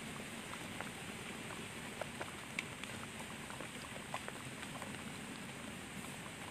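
Rain falling steadily, a soft even hiss with scattered faint drips and ticks.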